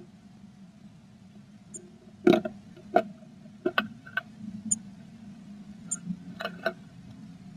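Female blue tit working inside a wooden nest box while building her nest: irregular sharp taps and scratches, several bunched around the middle and a pair near the end, over a steady low hum.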